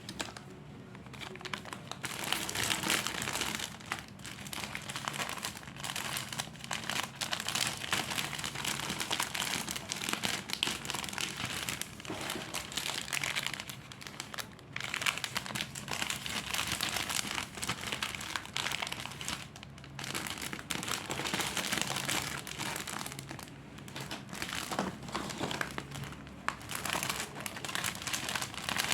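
Plastic snack wrappers and packaging crinkling and rustling as they are handled, almost continuously with a few short pauses.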